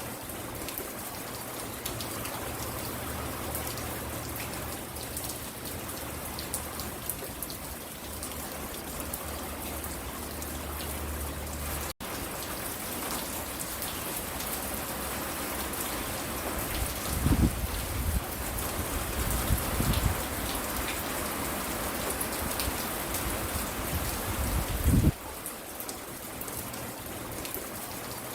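Steady rain falling and pattering on the porch, an even hiss with single drops ticking through it. A brief dropout comes about halfway through, and a few loud low rumbles come and go in the second half, the last one cutting off abruptly.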